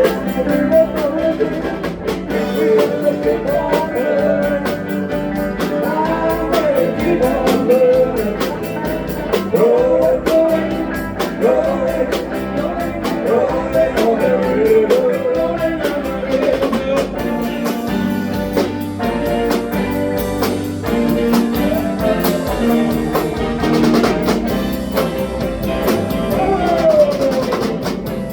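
Band playing a rock-and-roll song, with drum kit, guitar and a melody line sliding in pitch.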